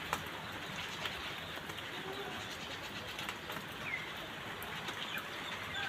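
Birds calling outdoors: a few faint, short calls over a steady background hiss.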